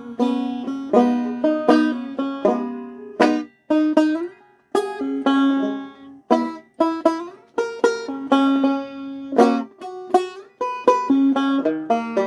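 Banjo played solo in an instrumental break: a melody of plucked notes, each ringing out and fading. The playing stops briefly about four seconds in and again near ten seconds.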